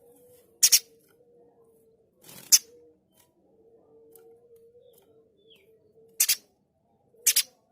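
Spiderhunter (pijantung gunung) giving four short, harsh, sharp calls, some of them doubled, spaced a second or more apart. A faint steady low hum runs underneath.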